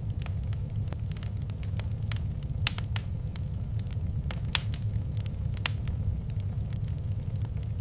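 Wood fire crackling in a fireplace: many small irregular clicks with a few sharper pops, over a steady low rumble.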